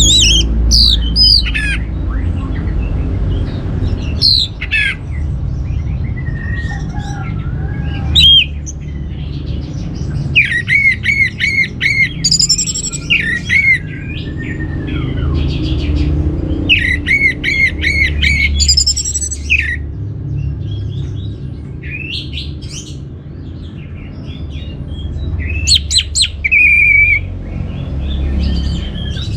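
Orange-headed thrush singing a varied song of sweeping whistled notes, broken by quick runs of rapidly repeated chirps, over a steady low rumble.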